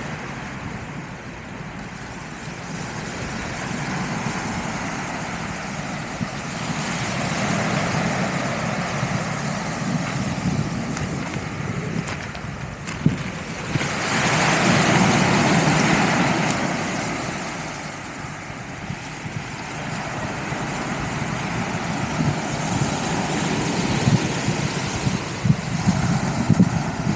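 Sea waves breaking and washing up the beach in slow surges that swell and ease, the biggest about halfway through, with wind buffeting the microphone.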